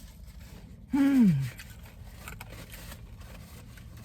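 A woman's short moan about a second in, falling in pitch, as she reacts to the burn of very spicy chicken. It sits over a faint, steady low hum.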